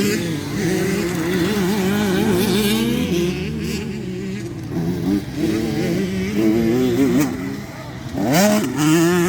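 Several motocross bike engines revving on the track, their pitches rising and falling as riders work the throttle. Near the end one engine's pitch climbs steeply as that bike accelerates.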